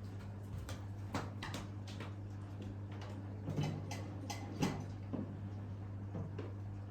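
Irregular light clicks and taps of hard plastic and metal parts being handled while cleaning a coffee machine, over a steady low hum.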